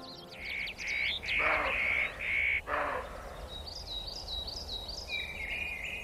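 Wild birds calling: repeated short, high notes, with two harsher calls about a second and a half and nearly three seconds in, then a quick run of chirps.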